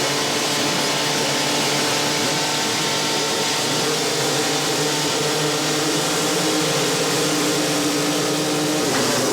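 Motocross motorcycle engines running steadily at high revs, with a shift in pitch near the end.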